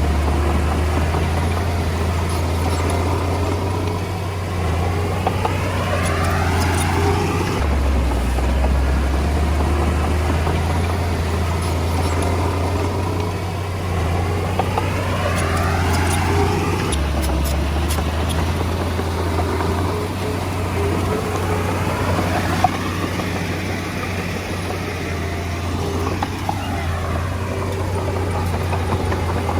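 A Komatsu D20A bulldozer's diesel engine running steadily with a deep, constant hum. Its tone sweeps about every ten seconds, and a few faint clanks sound now and then.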